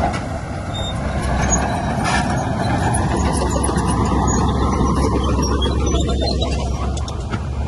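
Heavy diesel earthmoving machinery running steadily, a continuous engine noise without breaks.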